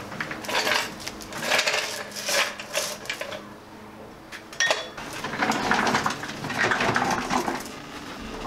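Metallic clinking and clattering in several irregular bursts, with a sharper single clink just under halfway through.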